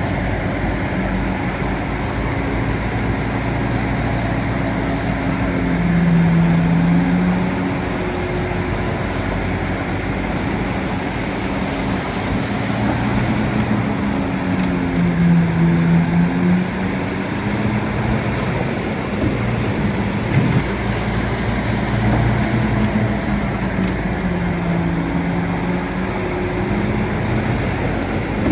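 Bulldozer's diesel engine running continuously. Its note dips in pitch and swells in level four times, about 6, 15, 22 and 26 seconds in, then picks back up.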